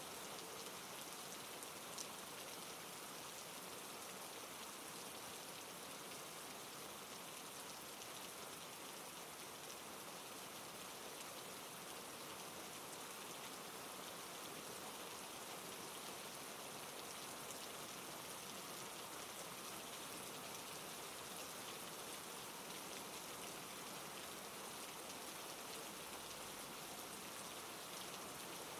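Steady rainfall with fine pattering drops, even throughout, with a single sharper drop or click about two seconds in.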